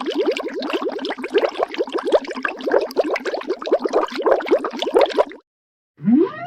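Heavy underwater bubbles: a dense stream of short rising bubble blips that cuts off suddenly about five seconds in. After a brief silence, a rising pitched call begins near the end.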